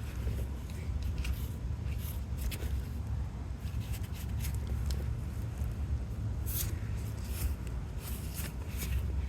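Scattered light clicks and scrapes of hand tools and small metal engine parts being handled, over a low steady rumble.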